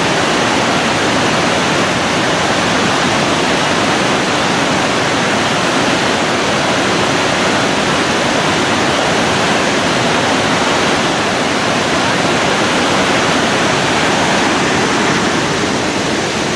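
Thi Lo Su waterfall: a loud, steady rush of falling water.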